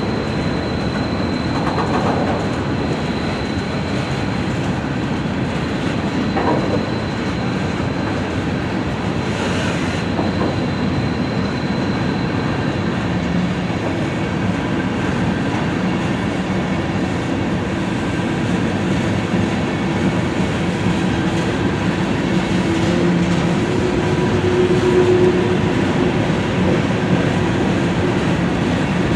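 Train cars rolling past: a steady noise of wheels on the rails, with a thin high wheel squeal that fades out about a third of the way through.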